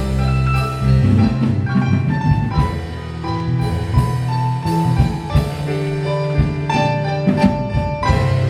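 Instrumental music from a stage musical's band: held keyboard notes over a bass line with a drum kit keeping time.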